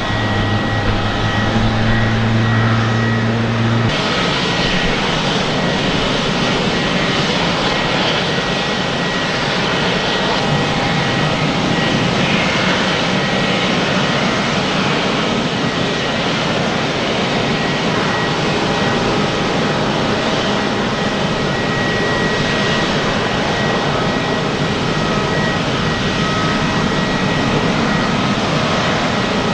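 Airbus A350-941's Rolls-Royce Trent XWB jet engines running steadily: a constant roar with a steady high whine over it. A strong low hum underneath cuts off abruptly about four seconds in.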